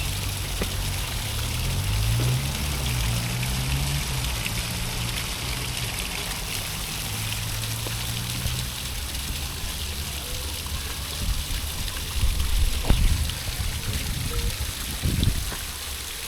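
Running water trickling steadily, with a low hum that glides up in pitch during the first few seconds and irregular low bumps in the last few seconds.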